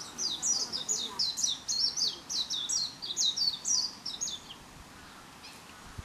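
Small songbirds chirping, a quick string of short, high, falling notes, several a second, that stops about four and a half seconds in.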